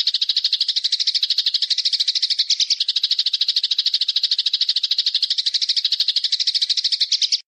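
A bird's fast, even, high-pitched rattling trill of about a dozen notes a second, held without a pause until it cuts off abruptly near the end.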